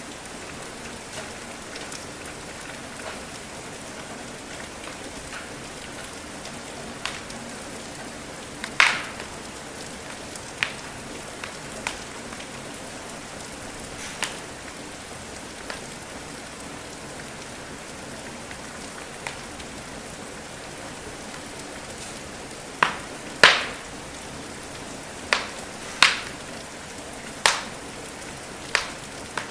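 Steady rain hiss with irregular sharp pops and crackles from a wood fire, about a dozen of them, coming closer together and louder in the last third.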